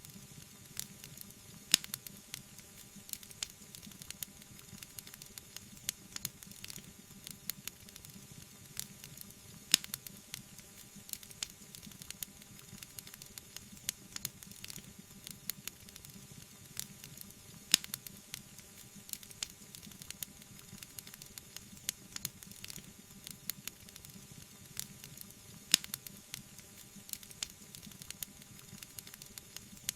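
Wood fire crackling in a fireplace: a steady low hiss with many small pops and ticks, and a few sharper snaps about every eight seconds.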